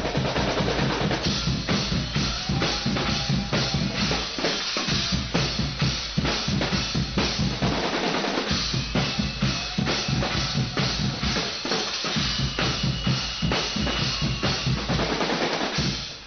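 Guggenmusik band's drum section playing a fast, driving beat on bass drum, snare and cymbals, which stops abruptly just before the end.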